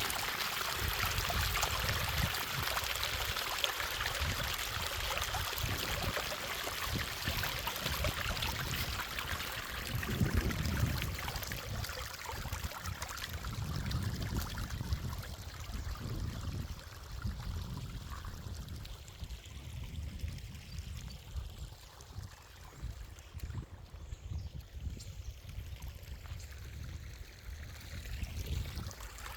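Running water of a small stream or waterfall: a steady rushing splash that grows fainter over the second half, with uneven low rumbles underneath.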